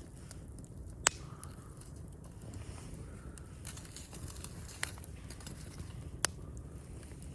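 Campfire of burning wood crackling: three sharp pops, the loudest about a second in, over a low steady rumble.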